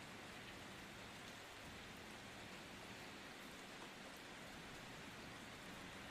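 Steady rain: an even, quiet hiss with faint scattered drop ticks.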